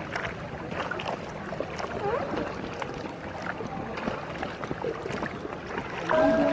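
Water splashing and dripping around a kayak as it is paddled, with small scattered knocks and faint voices in the background; a voice starts up near the end.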